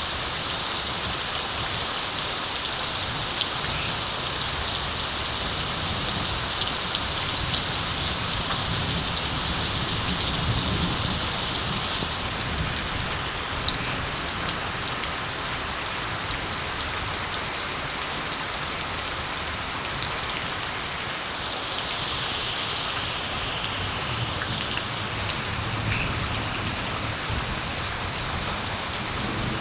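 Steady rain falling on surfaces, with individual drops tapping. A low rumble of distant thunder swells in the first half and again near the end.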